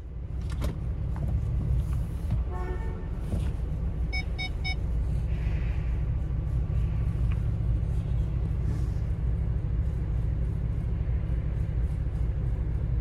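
Steady low vehicle rumble, with a short car horn toot about two and a half seconds in and a quick run of higher-pitched beeps about four seconds in.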